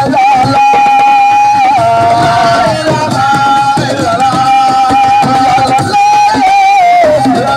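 Assiko band music: hand drums beating under a high, long-held melody line that wavers and steps in pitch.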